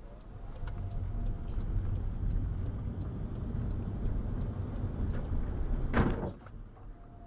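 Steady low road and engine rumble of a car driving, as picked up by a dashcam, with one short loud knock about six seconds in.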